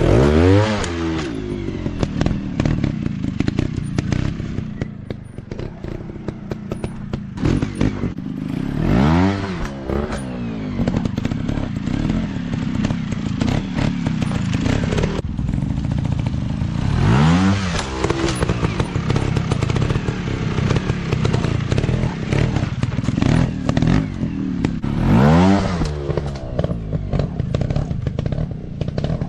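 Dirt bike engines running, with four rev sweeps about eight seconds apart in which the engine note climbs and then falls back, over a steady engine drone and some clatter.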